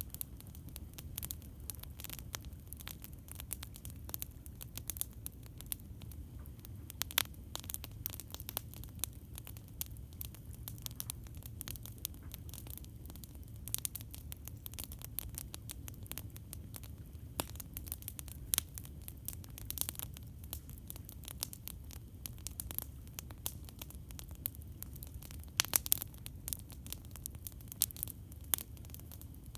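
Campfire crackling: irregular sharp snaps and pops over a low, steady rumble, with a quick cluster of louder pops near the end.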